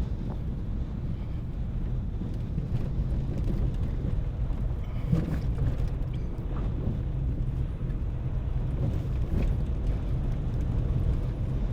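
Road noise of a car being driven: a steady low rumble of engine and tyres.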